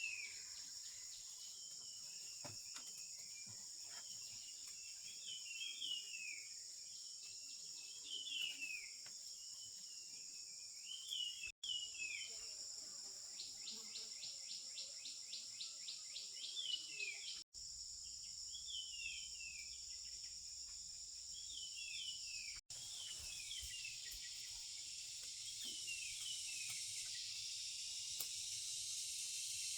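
Faint natural ambience: a steady, high insect chorus of crickets or cicadas, with a bird repeating short descending chirps every second or two and a quick rattling trill in the middle. The sound drops out abruptly three times where shots are cut together, and the insect hiss grows fuller near the end.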